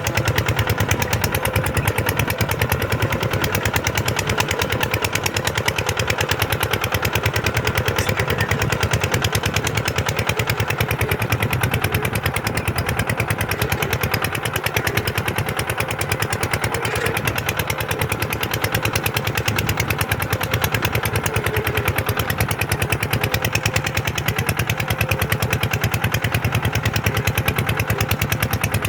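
Kubota tractor's diesel engine running steadily while plowing, with a rapid, even firing beat that holds constant throughout.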